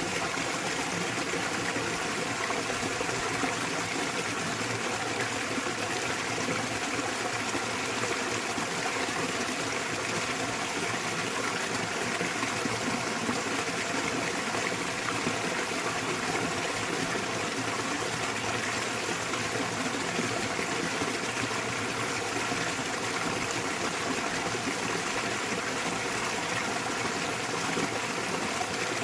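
Small waterfall splashing into a mountain stream, a steady, unbroken rush of falling and running water.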